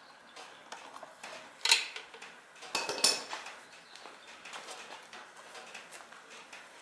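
Small metal tools and parts clinking and tapping in an irregular series of light clicks, with two louder metallic clanks, at nearly two seconds in and again at about three seconds in.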